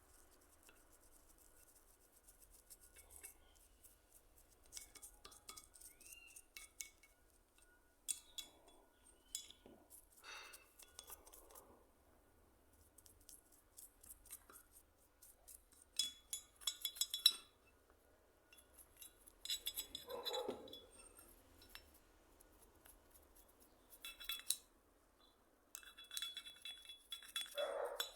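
Small hard objects clinking and clicking as they are handled and set down, in irregular clusters with quiet gaps, with a few short rubbing or scraping sounds.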